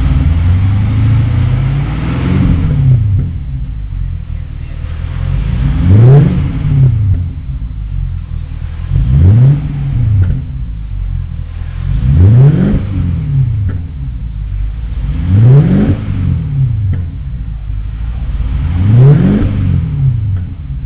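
BMW 745i (E65) 4.4-litre V8 revved six times from idle, about every three seconds, each rev rising quickly and falling back, heard through a one-off custom muffler with exits on both sides.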